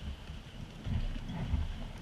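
Water sloshing around a kayak in uneven low surges, with wind rumbling on the microphone and a few faint drips or splashes.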